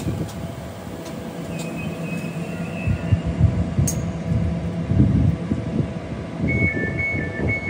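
Train rumbling past on the line, a loud low rumble that swells and fades with a faint high squeal early on. Near the end, a rapid two-tone beeping alternating between two pitches starts.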